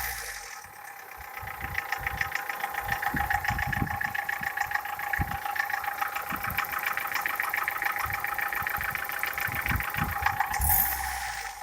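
Toyota 4S four-cylinder petrol engine idling warm with a rapid, even knocking from the cylinder head. The knock comes from camshafts with play in worn bearing beds.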